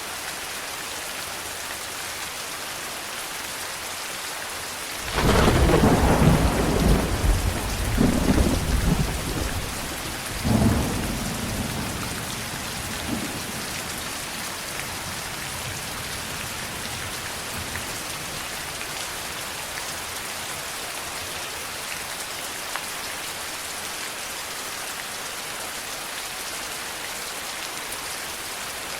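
Steady rain falling, with a clap of thunder about five seconds in that rumbles on in several rolling swells for some eight seconds before dying away under the rain.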